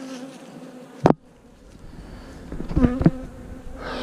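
Honeybees buzzing around an open hive, a steady hum. A sharp knock comes about a second in, and a couple of thumps near three seconds.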